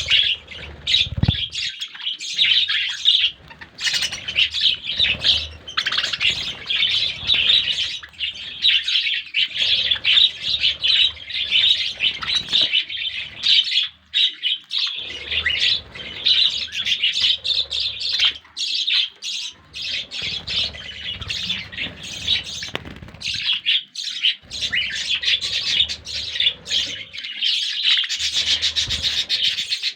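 A flock of pet lovebirds and budgerigars chirping and chattering continuously in dense, overlapping high calls.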